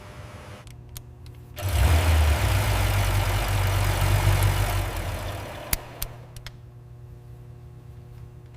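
Dodge Challenger SRT's V8 engine idling with a low, steady hum, then revved hard for about three seconds starting a couple of seconds in, before dropping back to idle. There are two light clicks as it settles.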